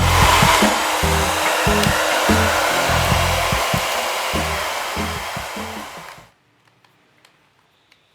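Hair dryer blowing steadily, then winding down and stopping about six seconds in, followed by a few faint clicks.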